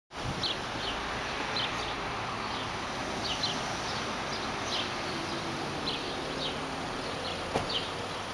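Birds chirping in short, repeated, high downward-sweeping notes over a steady wash of outdoor background noise, with one sharp click near the end.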